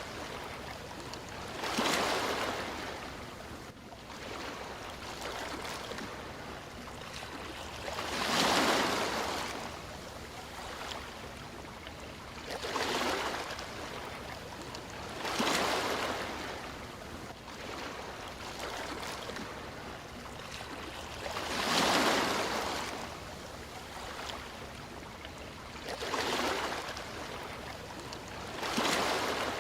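Sea waves washing onto a shore, swelling and falling back about every three to seven seconds over a steady hiss of surf.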